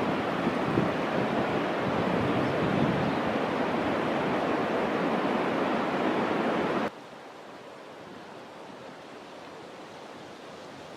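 Waterfall's steady rush of falling water. About two-thirds of the way through it cuts off suddenly to a much fainter, steady rush.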